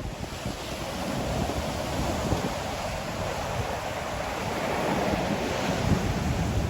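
Ocean surf, waves breaking and washing in, the wash swelling steadily louder toward the end. Wind buffets the microphone in low, uneven rumbles.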